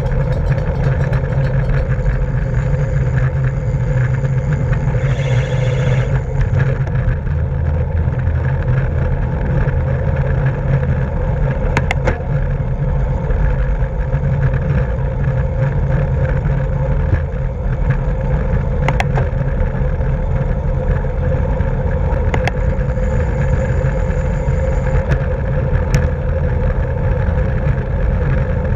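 Steady, loud wind rush and road noise on a camera microphone riding along in a bike race, with a few sharp clicks.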